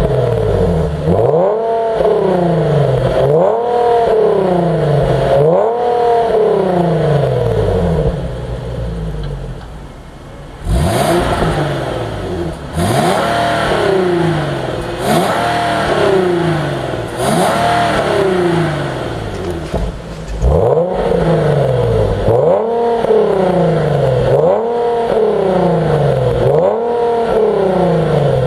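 Infiniti M37's 3.7-litre V6 revving through a variable-valve aftermarket exhaust. The revs rise and fall about every two seconds, in three sets of four blips with brief lulls between them.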